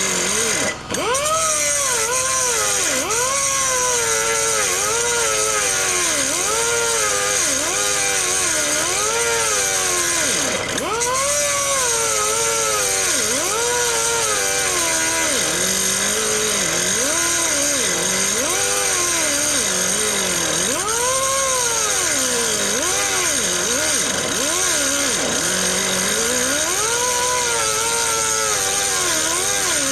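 Angle grinder with a cut-off wheel cutting through steel. Its motor whine drops in pitch each time the wheel bites under load and climbs back as the pressure eases, over a steady high hiss from the cut.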